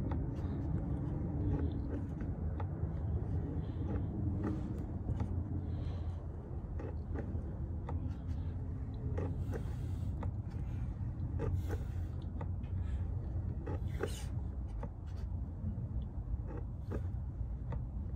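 Hand pump being worked to push gear oil into an outboard's lower unit, with irregular small clicks and squelches, over a steady low hum.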